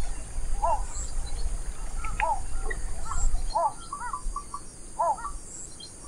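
A bird calling a short rising-and-falling note four times, about a second and a half apart, with a few softer notes in between. A low rumble underneath stops about halfway through.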